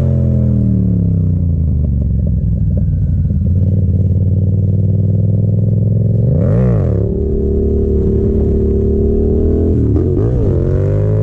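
Yamaha FZ-07's 689 cc parallel-twin engine running under way, with a quick blip of the throttle about six and a half seconds in and again near the end.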